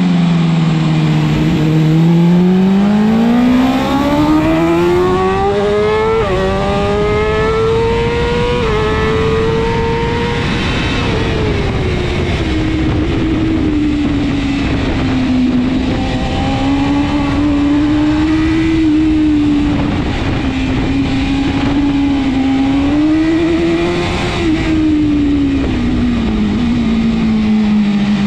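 BMW S1000RR superbike's inline-four engine at racing speed. It climbs hard through the revs over the first several seconds with two quick upshifts, drops as the bike brakes, then rises and falls as the throttle is worked through the corners.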